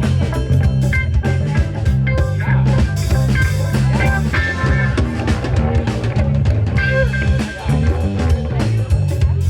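A live rock band plays an instrumental passage without singing: electric guitar, bass guitar and drum kit, with a busy bass line under steady drum hits.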